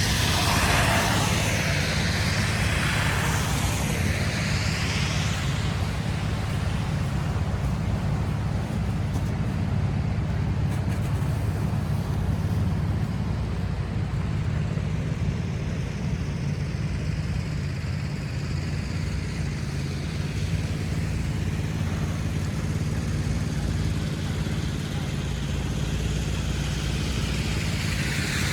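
City street traffic: a steady low rumble of engines. Near the start a vehicle passes close with a rising and falling tyre hiss, and another comes past near the end.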